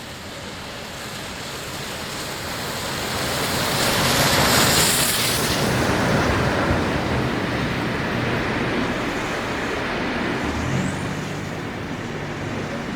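Steam-hauled train passing at speed: a rushing noise swells to its loudest about four to five seconds in, then slowly dies away.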